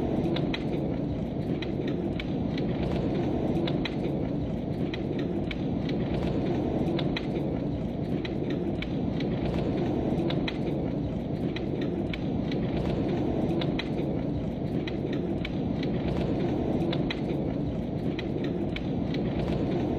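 Heavy rain falling steadily, a dense low rumble with many individual drops ticking sharply close by.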